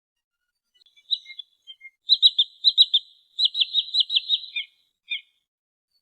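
Sandpiper calls: rapid runs of short, high, down-slurred notes, about six a second, in bursts starting about a second in and ending with two lower notes near the end.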